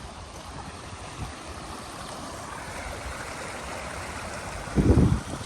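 Floodwater rushing, a steady stream-like noise. A brief, loud, low rumble near the end.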